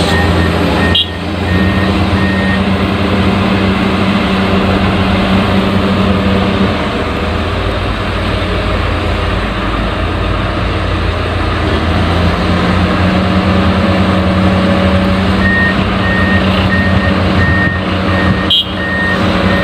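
An excavator's engine running steadily, with a reversing alarm beeping about twice a second near the start and again near the end.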